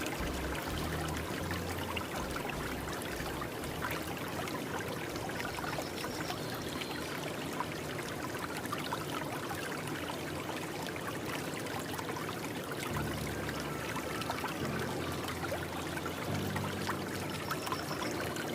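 Steady running water, like a stream or pouring water, with low hum-like tones underneath at the start and again past the middle.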